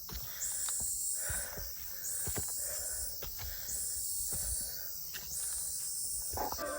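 A hiker's footsteps on a forest trail, irregular low thuds, under a high pulsing buzz that swells and fades about every second and a half. Music comes in near the end.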